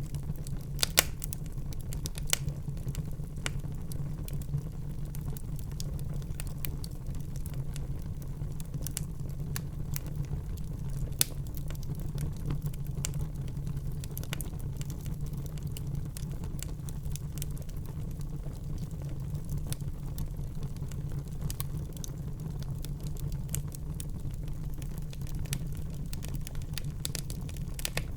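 Fire burning in a fireplace: a steady low rumble of flames with scattered crackles throughout and a few sharper pops, the loudest about a second in and about eleven seconds in.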